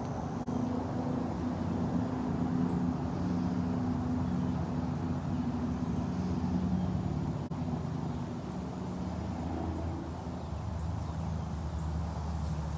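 A motor engine running steadily, a low hum that drifts slightly in pitch.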